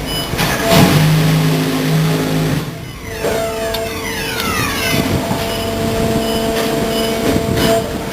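Cement tanker truck running on the move, a steady engine drone with whining tones; the sound dips briefly about three seconds in, and then a higher whine sweeps for a couple of seconds.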